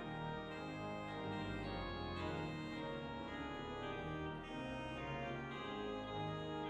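Organ playing a slow succession of held chords over a deep bass line.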